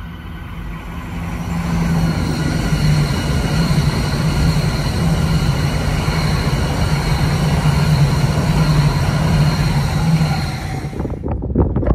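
E5 series Shinkansen passing at speed on the neighbouring track: a loud rushing roar with a steady hum, building over the first two seconds and then holding. It cuts off abruptly near the end.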